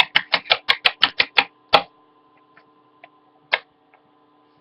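Small plastic Littlest Pet Shop toy figure's feet tapped quickly on a hard surface: a rapid run of about a dozen light clicks lasting under two seconds, then one more click a little later.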